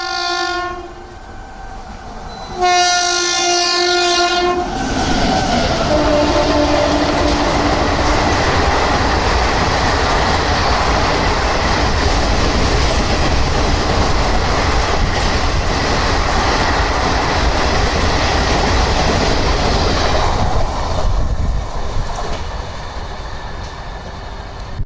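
Indian Railways express train passing at high speed. It opens with a short horn blast, then a longer horn of about two seconds whose pitch drops as the locomotive goes by. A steady rush of coach and wheel noise follows for about fifteen seconds and fades near the end.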